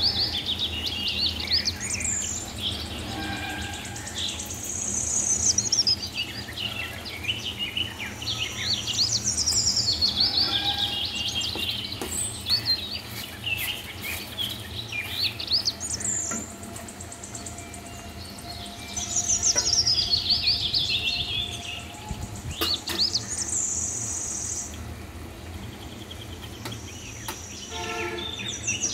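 A bird singing, with the same high song phrase that sweeps downward repeated every four to five seconds, over a steady low hum.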